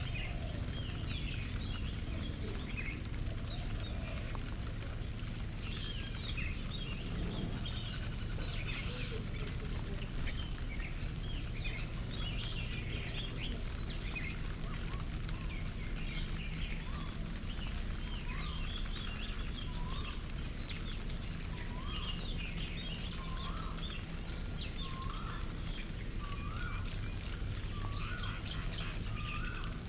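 Garden birds calling: many short, high chirps throughout. From about halfway in, one bird gives a short rising call over and over, roughly every second and a half. A steady low background rumble runs underneath.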